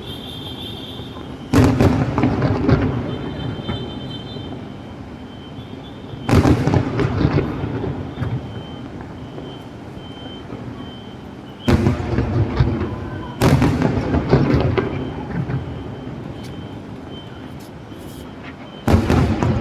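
Fireworks shells bursting overhead: five loud booms, each followed by a crackling tail that fades over a second or two.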